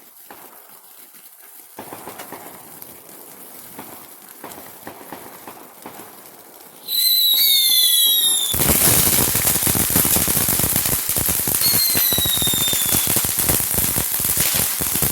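Consumer fireworks going off. A shrill, slightly falling whistle about seven seconds in is followed by a loud, dense crackling of rapid pops from about eight and a half seconds on, with a second whistle near twelve seconds.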